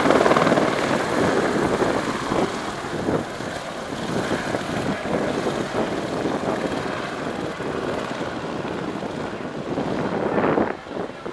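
Eurocopter AS350 B2 Ecureuil helicopter running, its single turboshaft engine and rotor loudest at the start and easing off somewhat before swelling again near the end.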